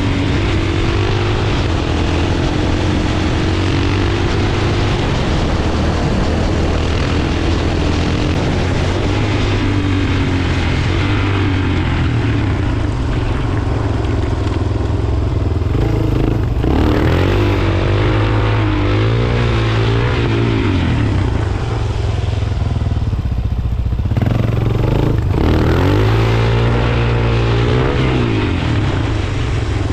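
Suzuki DR-Z400's single-cylinder four-stroke engine running under way, its pitch rising and falling with the throttle. The engine note cuts out briefly twice in the second half, then climbs again.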